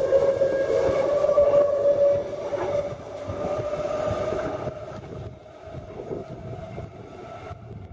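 Queensland Rail electric multiple-unit train running past close by, its wheels and running gear rumbling with a steady high whine. The sound drops away about three seconds in to the quieter rumble of a train approaching.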